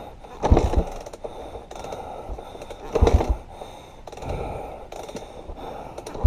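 A person breathing hard through the mouth, a few heavy breaths hitting the microphone about every second or two, with no engine running.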